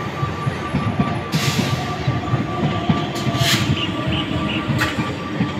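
An Eastern Railway electric multiple-unit local train running past: a dense rumble of wheels clattering over the rails, with a thin steady tone held over it. Three brief, sharp, hissing rattles stand out, at about a second and a half, three and a half and five seconds in.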